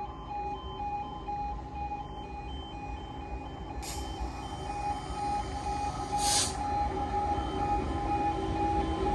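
Level crossing alarm sounding its pulsing two-tone warning, over the low rumble of a slow-moving diesel freight train that grows louder near the end. Two short hisses come about four and six seconds in.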